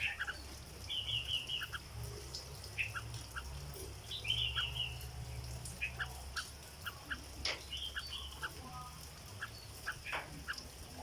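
Red-whiskered bulbul singing: short bubbly chattering phrases three times, with scattered single chirps between, over a steady low hum.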